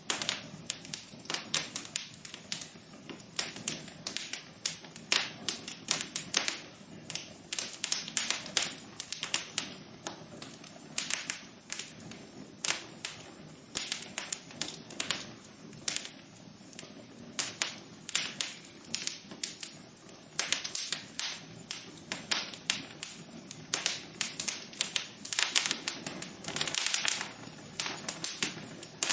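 Wood fire burning in a fireplace, crackling steadily with many irregular pops and snaps over a soft hiss of flame.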